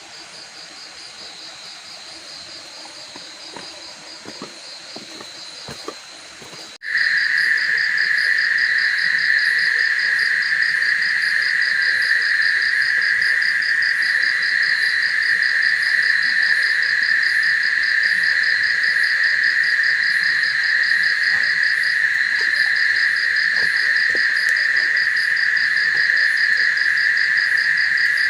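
Forest insect chorus of crickets trilling: a fast pulsing trill, quieter at first with a few light knocks, then abruptly much louder about seven seconds in, where a steady high drone joins the pulsing trill.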